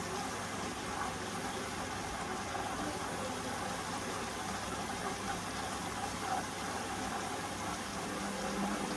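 Hoover Vision Dynamic washing machine running, with a steady hum from its motor and turning drum.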